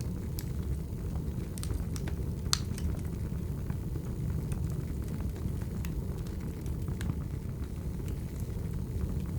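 Firewood burning: a steady low rumble of the fire with scattered sharp crackles and pops, the loudest about two and a half seconds in.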